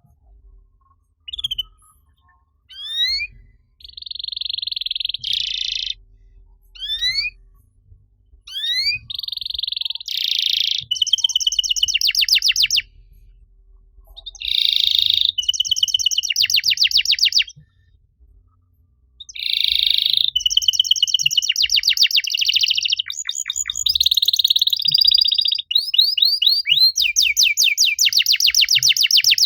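Domestic canary singing: rising whistled notes followed by fast trills and buzzy rolls, in phrases separated by short pauses.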